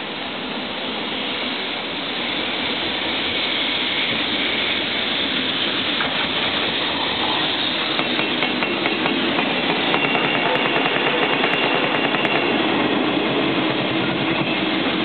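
JR Freight EF210 electric locomotive passing at close range: a steady rush of wheels on rail and running gear that grows louder and is loudest in the second half, with a run of light clicks from wheels crossing rail joints around the middle.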